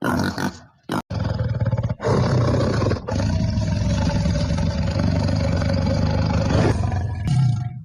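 A few short grunting calls in the first second, then a large animal roaring harshly for several seconds, broken briefly about two and three seconds in.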